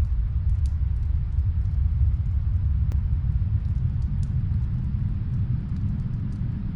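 Snowstorm wind as a steady low rumble, with faint fireplace crackles scattered through it and one sharper pop about three seconds in.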